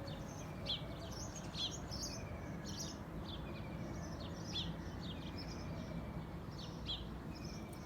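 Small birds chirping, many short high calls repeated irregularly, over a steady low outdoor background noise.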